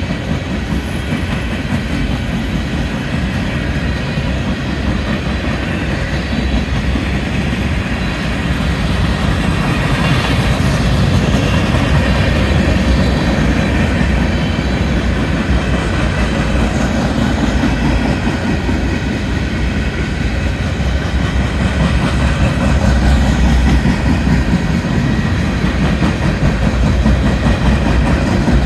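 Freight train flatcars rolling past steadily, a continuous rumble of steel wheels on the rails with clacking over the rail joints.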